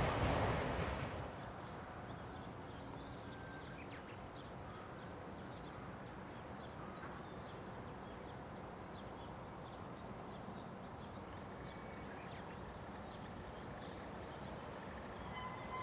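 Rumble of a train that has just passed, cutting off about a second in. Then faint trackside ambience with scattered small bird chirps, and two faint steady tones coming in near the end.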